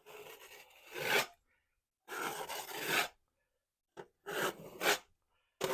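Drywall knockdown trowel dragged across wet joint-compound texture on the wall, flattening its peaks: three scraping strokes of about a second each, growing louder toward their ends, and a fourth starting near the end.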